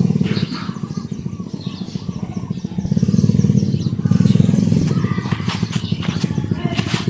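A motor running with a fast, even low throb that swells for a second or so around the middle, with faint short high chirps over it.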